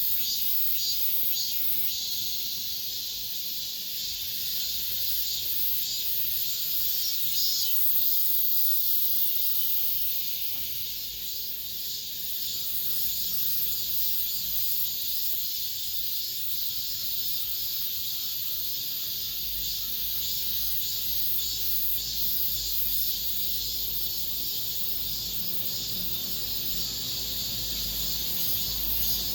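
A chorus of cicadas singing: a steady, high-pitched shrill buzz with a fine, fast pulse. A low rumble comes in about two-thirds of the way through.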